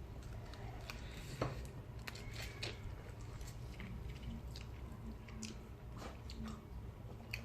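Close-up eating sounds: chewing, biting and soft wet crunches and clicks, scattered irregularly, from someone eating fried fish and crab.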